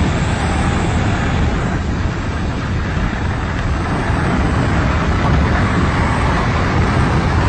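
Steady drone of an airplane in flight: engine and rushing wind noise.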